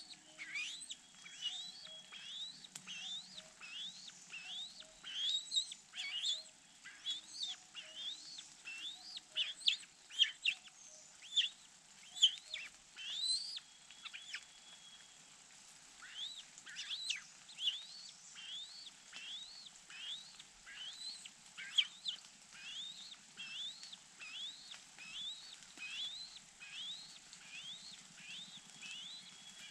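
A bird calling over and over: a short rising chirp repeated nearly twice a second, with a few louder, sharper notes around ten to thirteen seconds in.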